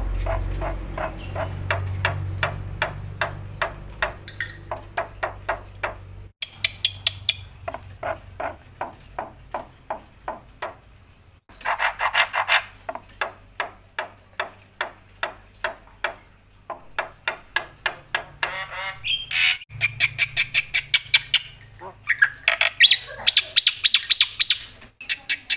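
Black-winged myna (jalak putih) singing loudly: long runs of sharp repeated notes, a few each second, broken by harsh squawking chatter and busier phrases. A low hum fades out in the first few seconds.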